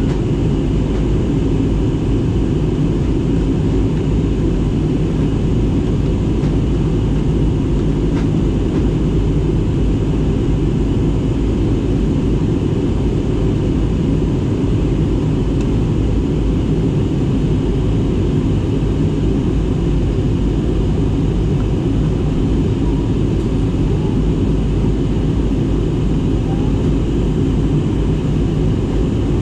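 Steady cabin noise of an airliner in flight: a constant deep rumble of engines and airflow, unchanging throughout.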